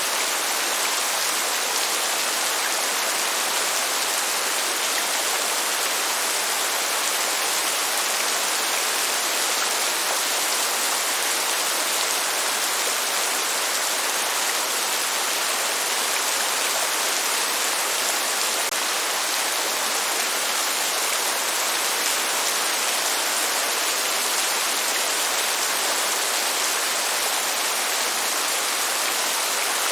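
Steady rain falling, an even hiss that doesn't change, with no thunder.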